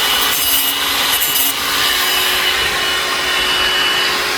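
Power saw running steadily as it cuts off protruding corners of wood framing.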